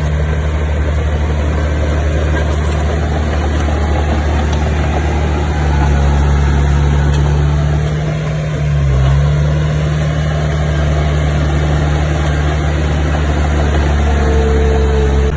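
Diesel engine of heavy earthmoving machinery running steadily with a deep hum; it grows louder about six seconds in, dips briefly around eight seconds, then picks up again.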